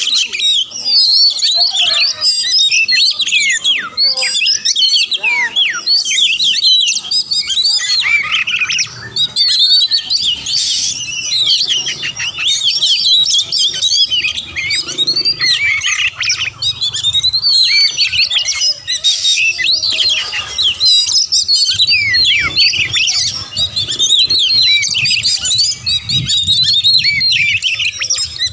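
Oriental magpie-robin (kacer) singing fast and without pause: a dense, rapid stream of varied high chirps and whistled glides, the full 'gacor' song that keepers play to draw a kacer into answering.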